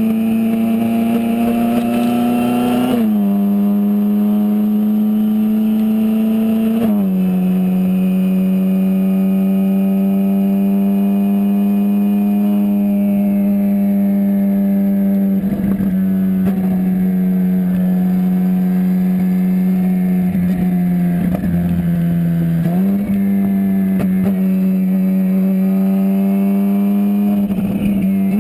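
Ferrari 458 Spider's twin-turbocharged 4.5-litre V8 running at steady mid revs under way, with the Hennessey HPE700 upgrade. Its pitch drops in two quick steps in the first seven seconds, sags slowly for a while, then climbs again about 23 seconds in.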